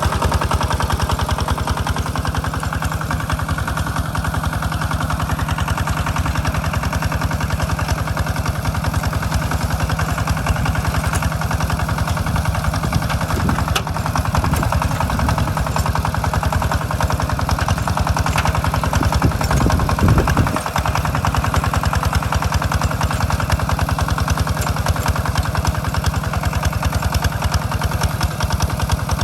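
Engine of a Hinota two-wheel walk-behind tractor running steadily while plowing a rice field, a fast, even chugging that barely changes.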